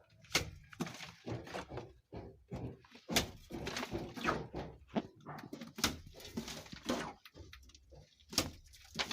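Irregular knocks and thuds, as of objects being handled and set down, with scraping noise between some of them.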